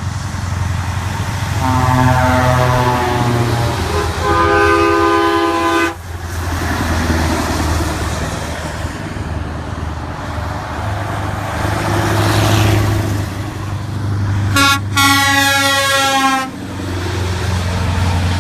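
Scania truck sounding its horn three times, each blast about two seconds long: two back to back, then a third near the end. Its diesel engine runs steadily underneath.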